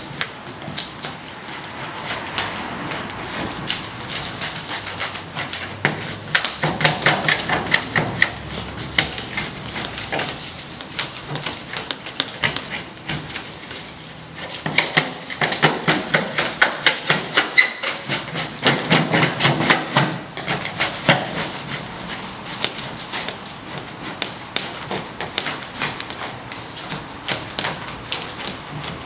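Plastic scraper scraping loose, peeling paint off the body of a Toyota RAV4 in quick repeated strokes, coming in several spells with pauses between.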